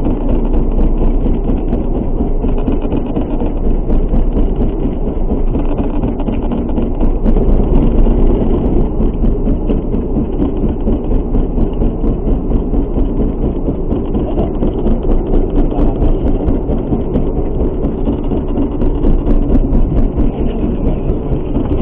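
Boat engine running steadily: a loud, continuous rumble.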